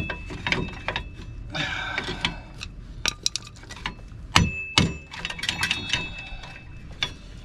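Steel drum brake hardware (return springs, adjuster and shoes) being pried and worked loose: a run of metallic clicks, clinks and short ringing tones, with two sharper knocks a bit past the middle.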